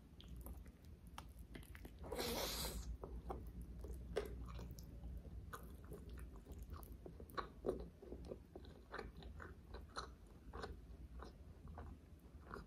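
Close-up eating sounds of a person chewing handfuls of rice and butter chicken: many short mouth clicks as she chews. There is a brief, louder rush of noise about two seconds in.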